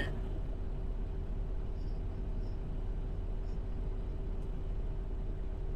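Semi truck's engine running, heard from inside the cab as a steady low rumble with a constant hum.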